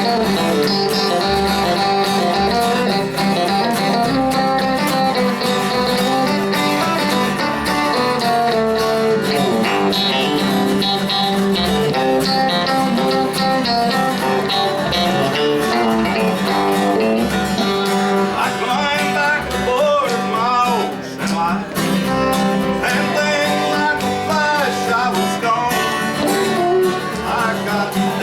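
Live country band playing in the Bakersfield style, with guitar to the fore.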